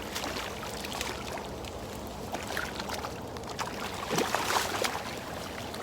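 Water splashing and sloshing as a hooked blue catfish thrashes near the bank, with a louder cluster of splashes about four seconds in.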